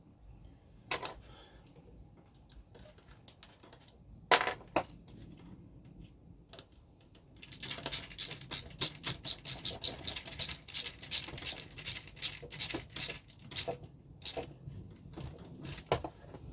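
Small hard plastic and metal parts clicking and tapping as a Tamiya truck suspension is fitted to a model dolly frame. There are a few separate clicks first, one sharp one about four seconds in, then a quick run of regular clicks, about five a second, through the second half.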